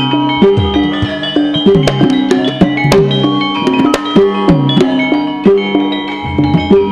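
Javanese gamelan music accompanying lengger dance: hand-drum strokes that swoop in pitch play a running rhythm over ringing metallophone notes.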